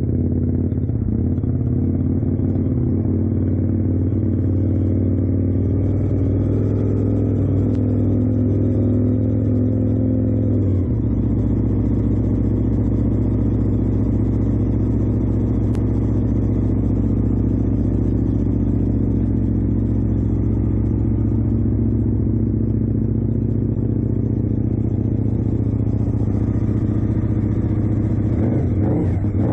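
Aprilia RSV1000R's V-twin engine idling steadily just after a cold start on a bit of choke. Its note changes slightly about eleven seconds in, then runs on evenly.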